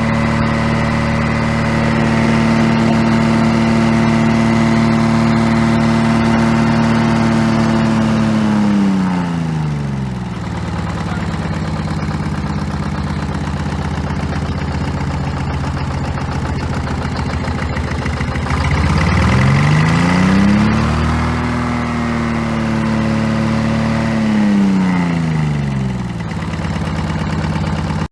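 GM 2-71 two-cylinder two-stroke diesel engine running fast, then slowing to idle about nine seconds in. It is revved back up around twenty seconds, held, and let drop to idle again about twenty-five seconds in.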